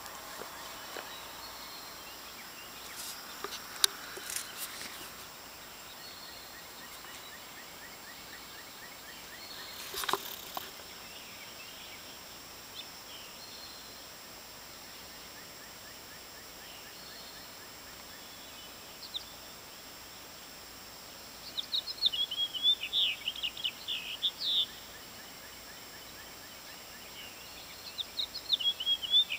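A songbird singing in two bursts of fast, jagged, high chirps, one about three-quarters of the way in and another starting near the end, over a steady outdoor hiss. A few brief rustles and knocks come earlier.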